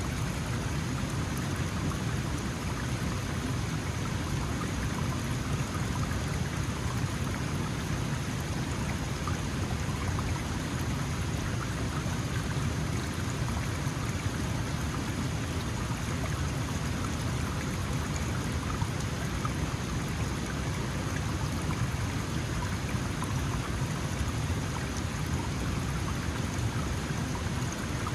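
Small mountain stream flowing steadily over stones, a continuous splashing and burbling with a low rush underneath.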